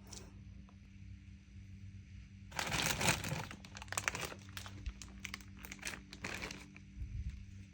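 Packaging being handled and crinkled: a dense burst of crinkling about two and a half seconds in, then a string of separate crackles for a few seconds.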